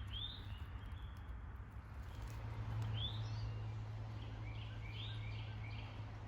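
Songbirds calling in woodland: a short rising chirp near the start, another about three seconds in, and a quick run of short notes around five seconds, over a faint steady low hum.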